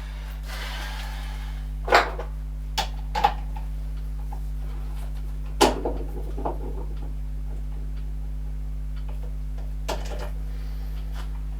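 Steady low machine hum with a handful of sharp clicks and knocks of metal tools being handled, the loudest two about two and five and a half seconds in.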